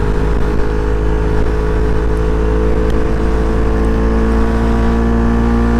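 CFMoto NK400 motorcycle's parallel-twin engine running at a steady speed while riding, holding one even pitch, under a low rumble of wind on the microphone.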